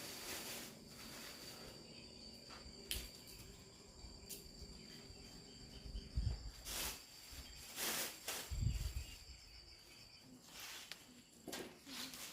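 Insects keeping up a steady high-pitched trill that fades out near the end. A few louder rustles, knocks and two low thumps from handling or movement come in the middle.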